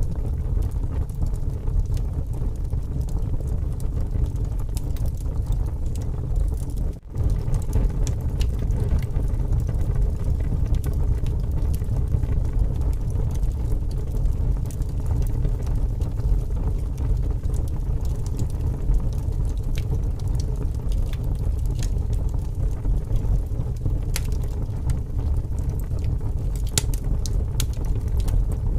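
Strong wind rumbling steadily over a wood campfire, with the fire's crackle heard as scattered sharp pops. The sound drops out briefly about seven seconds in.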